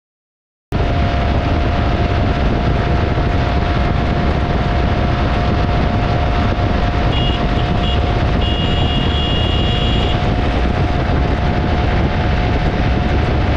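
Keeway K300R motorcycle's single-cylinder engine running at a steady high speed under heavy wind rush, its note holding level without revving up or down. A thin high tone comes and goes from about seven to ten seconds in.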